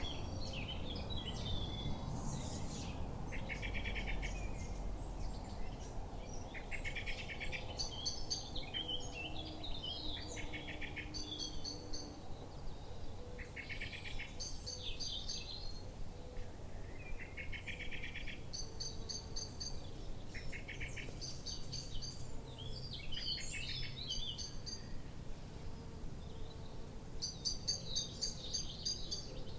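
Several wild birds calling and singing, with short rapid trills and rows of high chirps repeating every second or two, over a low steady background rumble.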